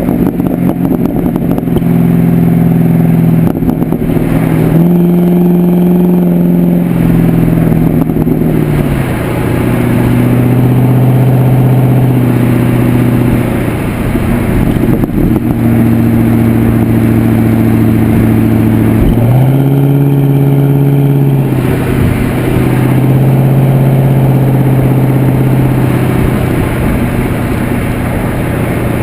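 2009 Pontiac G8 GXP's 6.2-litre LS3 V8 running through an aftermarket Corsa exhaust, heard from the rear. The engine note holds steady, rises in pitch about five seconds in and again about twenty seconds in, holds each time for a couple of seconds, then drops back.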